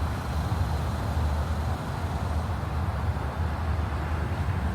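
Steady low outdoor rumble with no distinct events, sitting mostly in the bass.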